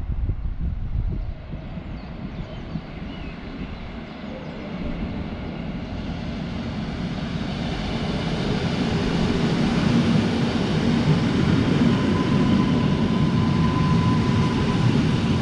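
Electric multiple-unit passenger train approaching and running in beneath, its rumble growing steadily louder. A thin steady whine joins about three-quarters of the way through.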